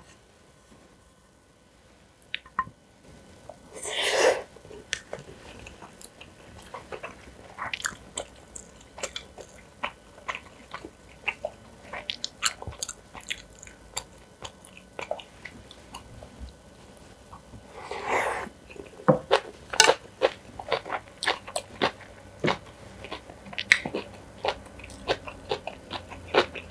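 Close-miked eating sounds: chewing and crunching a mouthful of rice mixed in black bean sauce with kimchi, with many short sharp clicks. They begin a few seconds in, and two longer noisier sounds come about four and eighteen seconds in.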